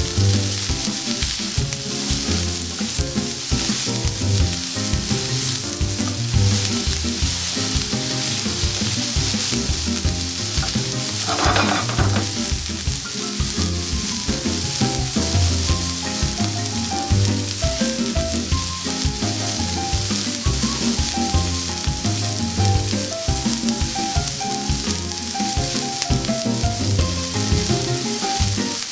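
Garlic, diced onion and shrimp sizzling in hot vegetable oil in a sauté pan, stirred with a spatula. The sizzle is steady and flares up briefly about eleven seconds in.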